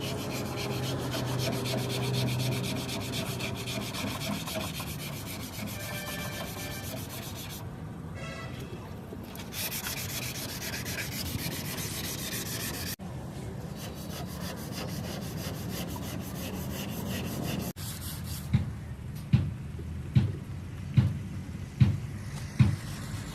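Sanding on metal bodywork, a dense scratchy rubbing with a motor humming under it for the first few seconds. Sharp cuts break the sound twice, and near the end comes a run of regular low thumps about once a second.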